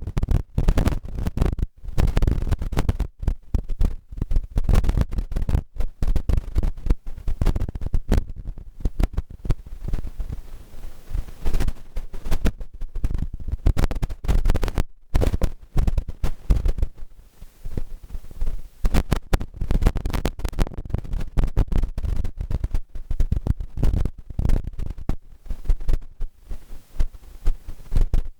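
Wind buffeting the microphone, a loud, irregular low rumble of gusts.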